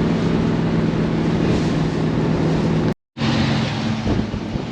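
Ford Fairlane at speed: a steady engine drone under road and wind noise. The sound cuts out for an instant about three seconds in, then returns a little quieter and windier.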